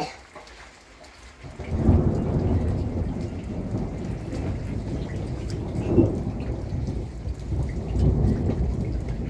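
Thunder with heavy rain. After a sharp click at the start, a long low rumble builds about a second and a half in and rolls on, swelling again twice.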